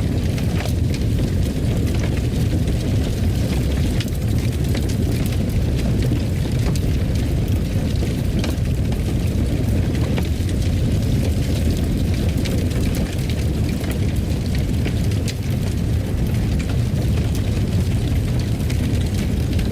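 Fire burning in a fireplace: a steady low rumble of flames with frequent small crackles and pops scattered throughout.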